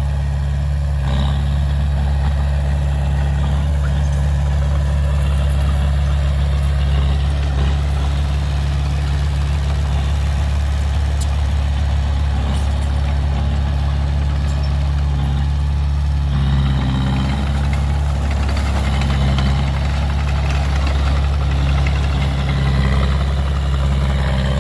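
Heavy machine engine running steadily at idle.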